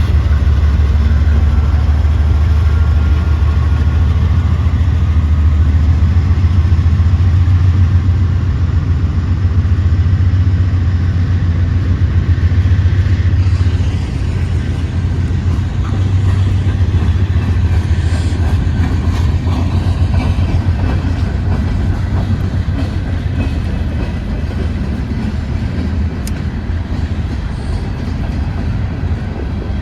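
Coal train rolling past, a loud steady low rumble of the train and its wheels on the rails.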